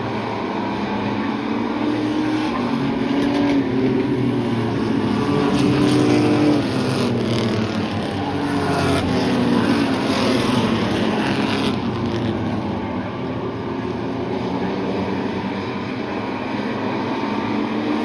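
Race trucks' engines running hard around a short oval, the pitch gliding up and down as the trucks pass, loudest about six and ten seconds in.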